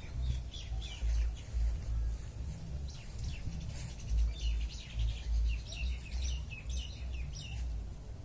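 Small birds chirping in quick short calls, in clusters, over an uneven deep rumble.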